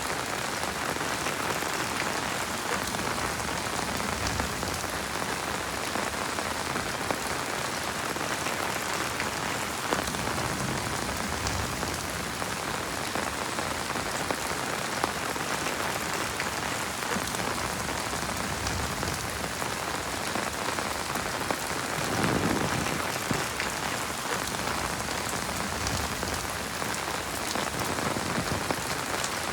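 Heavy rain falling steadily, a dense hiss of drops with scattered sharper individual drop hits, and a brief louder, deeper swell about two-thirds of the way through.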